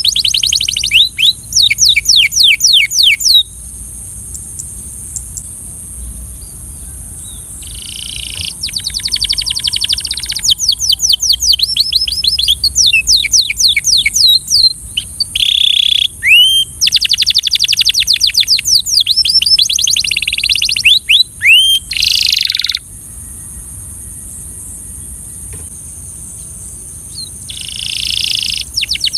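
Canary singing in long, rapid trilled phrases of repeated high sweeping notes, about ten a second, broken by two pauses of several seconds.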